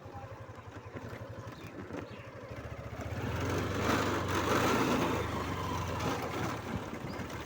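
Motorcycle engine running under the rider, a steady low pulse that picks up and gets louder about three seconds in, with more road and wind noise for a few seconds before easing back.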